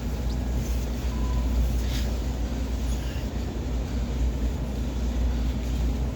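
Steady low machine rumble with a faint click about two seconds in.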